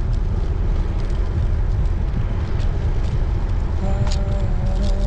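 Wind buffeting the microphone of a rider on a moving road bike, a steady low rumble. About four seconds in, a short steady pitched tone joins it for about a second and a half.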